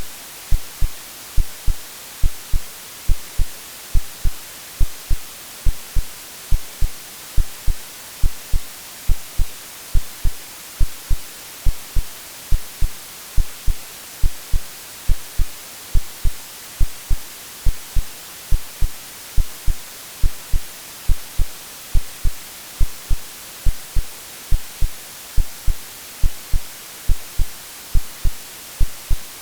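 Synthetic heartbeat of low, regular thumps, about three every two seconds, over a steady white-noise hiss: an AI-generated sleep sound meant to resemble what a baby hears in the womb.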